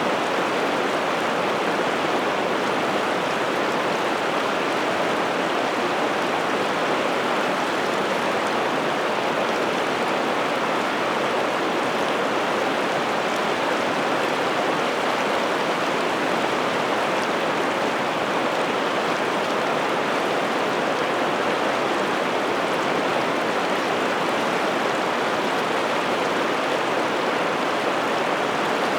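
Piteälven river water rushing steadily, an even, unbroken wash of flowing current with no pauses or changes.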